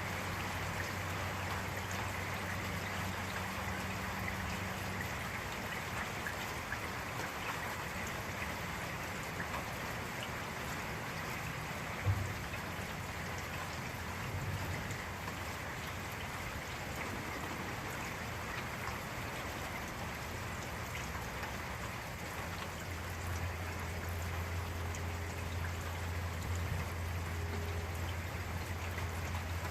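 Steady rain falling, an even hiss throughout. A low rumble sits under it at the start and comes back about two-thirds of the way through, and a single sharp tick sounds near the middle.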